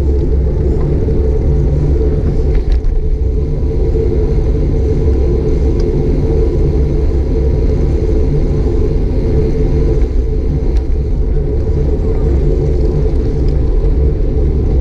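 Steady low rumble of wind buffeting and road vibration on an action camera's microphone while riding a bicycle, with a couple of faint knocks.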